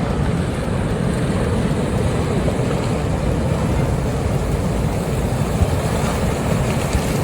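A surge of water and broken river ice rushing downstream: a loud, steady, low rushing rumble.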